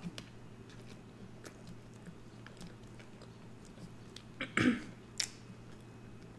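Close-miked chewing and wet mouth sounds of someone eating fries, with small scattered clicks of a plastic fork in a paper fry tray. About four and a half seconds in there is one short, louder throat sound like a cough.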